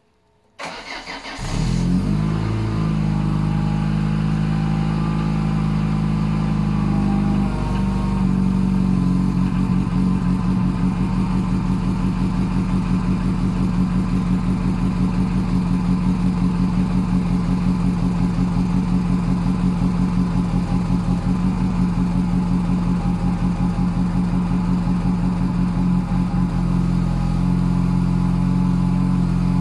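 Renault 21 engine cold-starting at −10 °C: a brief crank that catches within about a second, then a steady cold idle. The idle note shifts about eight seconds in and settles into an even throb.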